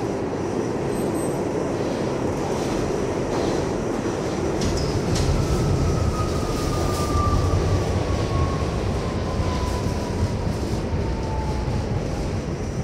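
R68 subway car running on the track, with a steady loud rumble of wheels and car body. Over the second half, a thin whine slowly falls in pitch.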